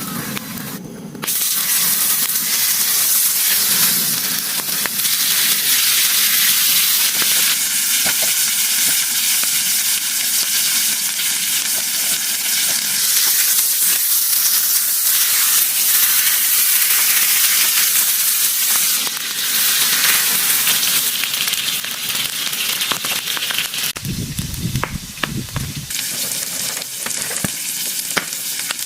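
Food frying in hot oil in a pan, a loud steady sizzle that jumps in suddenly about a second in. A brief low rumble comes under it near the end.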